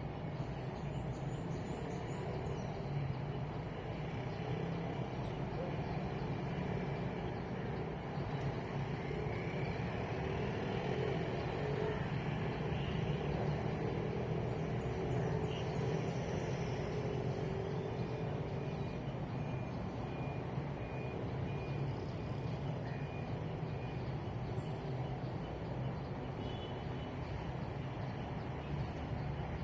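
Steady drone of road traffic, swelling slightly around the middle as a vehicle passes.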